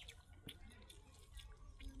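Faint wet eating sounds: a person chewing, with a few short sharp clicks and smacks of the mouth.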